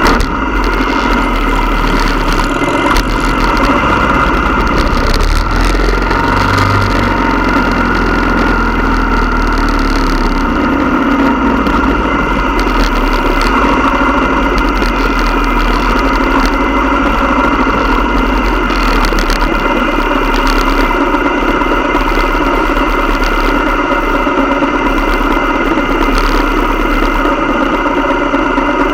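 Motorcycle engine running at a steady, unchanging speed for the whole stretch, with no revving.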